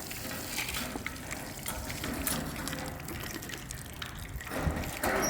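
Water running, getting louder near the end.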